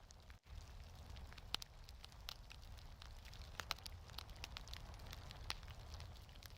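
Fireplace wood fire crackling, with scattered sharp pops and snaps at irregular intervals over a faint, steady low rumble. The sound cuts out for an instant about half a second in.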